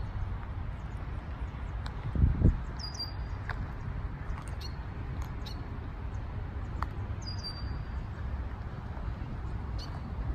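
Birds chirping now and then, short high calls, over a steady low outdoor rumble, with one brief low thump about two seconds in.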